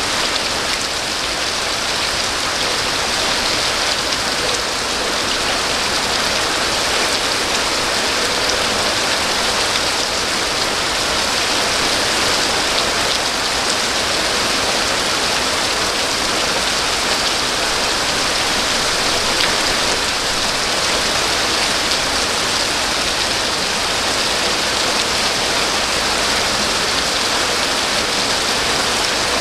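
Rain falling steadily: an even, unbroken hiss with no pauses or single loud drops.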